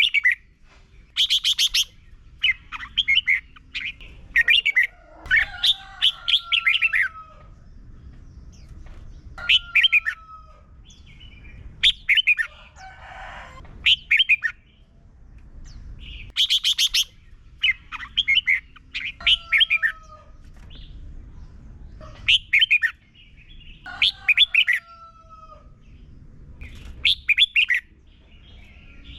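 Red-whiskered bulbul singing short, loud bursts of quick chirping notes, some ending in a falling whistle, in the 'double' (bern) song style valued by Thai bulbul keepers. The same run of phrases comes again about fifteen seconds later.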